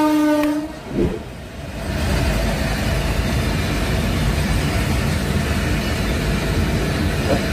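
Diesel train horn sounding a steady note that cuts off about half a second in. From about two seconds in, the steady low rumble of a moving train takes over.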